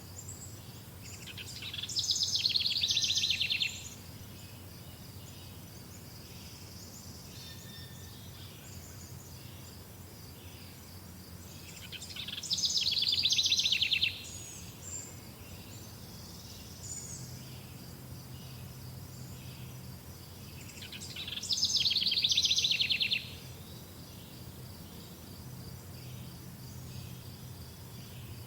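A songbird singing a rapid, high trilled phrase about two seconds long, three times at roughly ten-second intervals, over a steady, faint, high pulsing chirp like insects.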